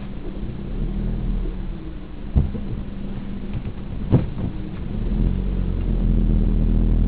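Car engine running as the car moves slowly, heard from inside the cabin; the low rumble grows louder about five seconds in. Two sharp knocks come a couple of seconds apart.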